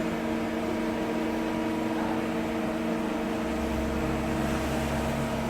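CNC lathe running with a steady hum made of several fixed tones; a deeper low rumble joins about three and a half seconds in.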